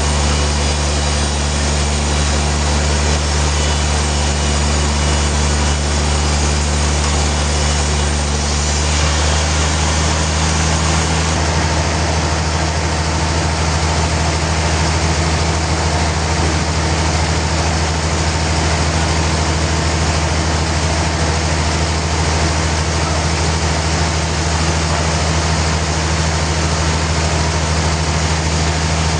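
Heavy sawmill machinery running steadily with a deep, engine-like hum, its note shifting slightly upward about nine seconds in.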